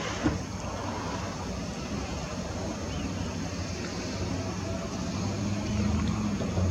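Steady low engine hum of a passing motor, getting louder near the end, over outdoor background noise, with one sharp click a quarter second in.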